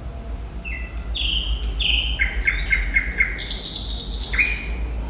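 Thrush nightingale singing: short falling whistled notes, then a run of repeated notes at about four a second, then a loud dry rattle lasting about a second. A steady low hum runs underneath.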